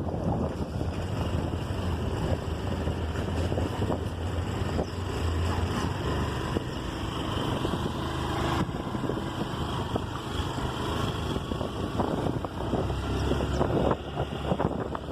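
Riding a scooter on rain-wet streets: wind buffeting the microphone over the steady run of the engine and the wash of wet road noise.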